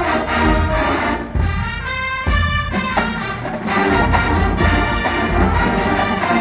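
College marching band playing a loud brass passage, trumpets and trombones sounding full held chords over low brass and drums.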